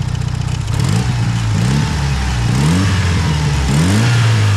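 Tuned Mitsubishi Lancer Evolution VIII's turbocharged 4G63 inline-four revved from idle, blipped up and back down about four times in quick succession.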